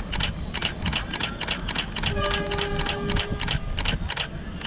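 Container freight wagons rolling slowly past, their wheels clacking over the rail joints in rapid, uneven clicks over a low rumble. A brief steady squeal comes in about two seconds in.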